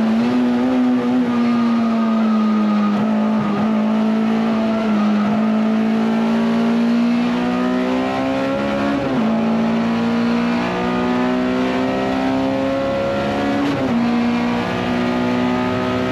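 Honda S2000 race car's F22C inline-four engine running hard at steady high revs, heard from inside the cabin. The pitch dips briefly and recovers a few times.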